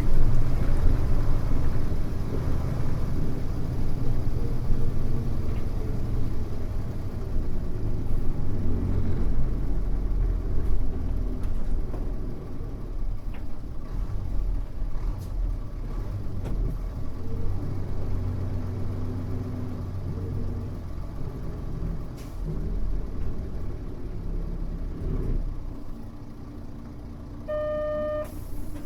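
Mitsubishi Fuso U-MK618J route bus heard from inside: its diesel engine running under way, the note rising and dropping several times, then easing off as the bus slows. Near the end a single electronic beep of about a second sounds over the idling engine.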